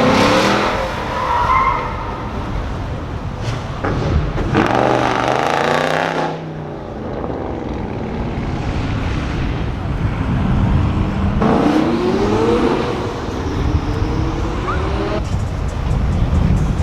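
Loud car engines revving and accelerating away one after another. The engine pitch climbs at the start, a car goes past about five seconds in, and another engine revs up with rising pitch about twelve seconds in.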